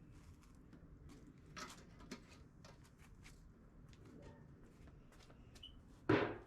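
Faint scattered clicks and light taps of hands-on work, with one louder knock about six seconds in.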